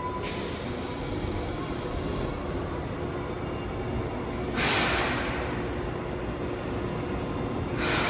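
Hiroshima Electric Railway streetcar standing at a station with a steady low rumble, cut by hisses of released compressed air. A long hiss starts just after the start, a sharp one about halfway fades over a couple of seconds, and a short one comes near the end.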